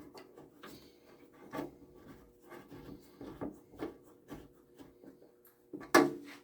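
Small irregular clicks, scrapes and rubbing of hands working plastic parts and screws on a tankless water heater's condensate collector, with a sharper knock about six seconds in.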